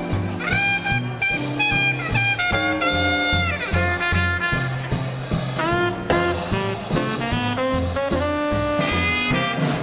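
Small swing band playing live: trumpet and saxophone carry the melody over an evenly pulsing bass line.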